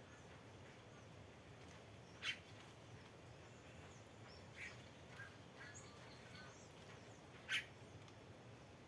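Wild birds calling: two loud, short, sharp calls about five seconds apart, with faint chirps in between, over a low steady hiss.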